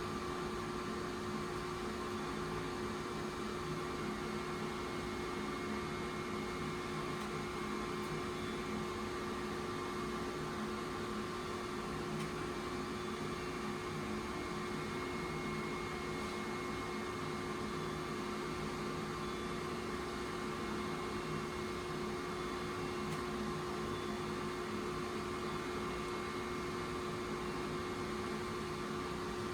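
Tokyo Metro 8000-series train standing at a platform, its electrical equipment and air-conditioning humming steadily, with a few constant tones over a fan-like hiss.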